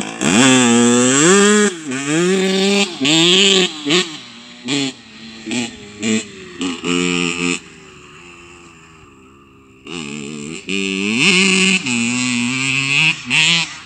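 Motorcycle engine revving again and again, its pitch sweeping up and dropping back in short runs, with a quieter, lower-pitched stretch for a couple of seconds past the middle before it revs hard again.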